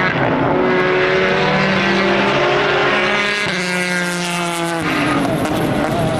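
Racing car engine accelerating hard through the gears, its pitch climbing and then dropping at two upshifts, about three and a half and five seconds in.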